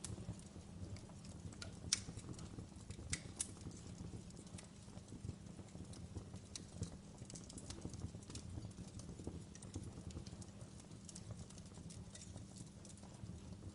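Wood fire crackling: irregular sharp pops and snaps, a few louder ones near the start, over a low steady rumble of the burning.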